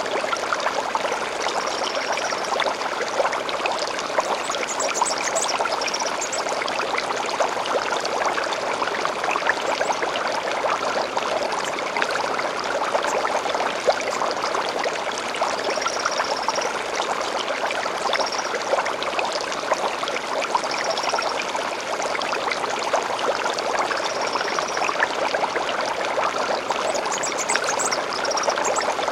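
Gentle stream flowing steadily, a constant babbling rush of water. Short high bird calls come in every few seconds over it, with a quick run of rising chirps a few seconds in and again near the end.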